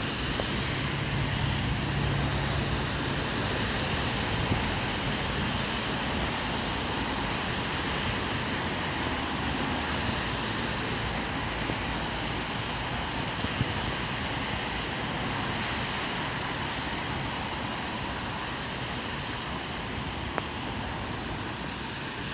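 Steady wash of traffic on a rain-wet road, tyres hissing on the wet surface, with a low vehicle hum in the first few seconds and a few faint ticks.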